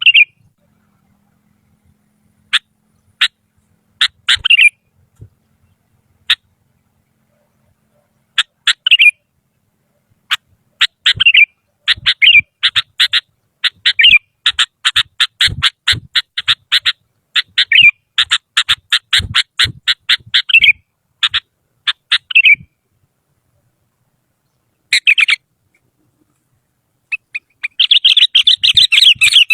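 Sooty-headed bulbul (kutilang) calling: scattered short sharp notes, then fast runs of rapid chattering notes for about ten seconds, a pause of a few seconds, and dense chattering again near the end.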